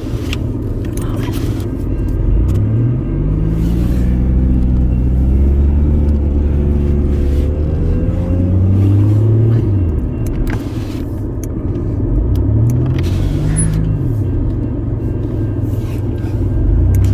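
Car engine under load: the revs climb and hold for several seconds, drop about ten seconds in, then climb and ease off again twice, over a steady low rumble.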